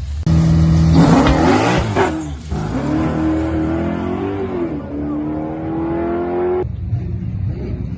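A drag-racing vehicle's engine starts suddenly and holds a steady high rev. It then launches, its pitch climbing and dropping through quick gear changes, and pulls in a long, slowly rising tone that cuts off abruptly near the end.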